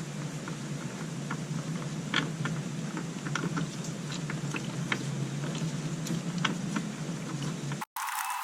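Scattered light clicks and taps of hand tools being handled on the scooter, over a steady low hum; the sound cuts off abruptly shortly before the end.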